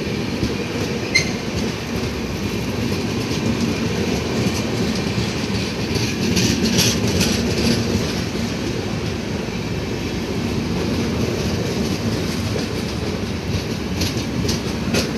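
Howrah Mail express coaches rolling past: a steady rumble of wheels on rail, with clicks as the wheels cross rail joints, busiest about six to seven seconds in and again near the end. A brief sharp squeak about a second in.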